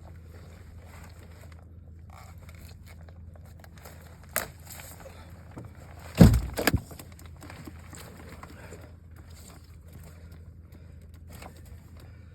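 Steady low hum of a boat motor running, under light scraping and rustling, with a sharp knock about four seconds in and a heavier double thump a couple of seconds later.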